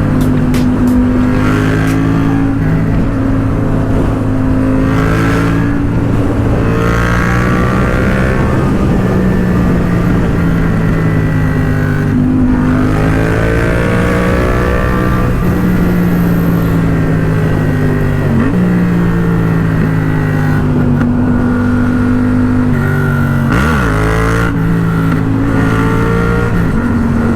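Sport motorcycle engine running while riding, its pitch rising and falling slowly with the throttle, with wind rushing over the microphone.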